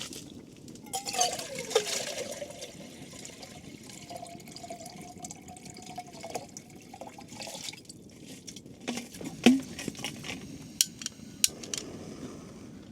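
Water poured out of a container with a layer of ice in it, with a falling gurgle as it starts. Then several sharp clinks of hard containers knocking together.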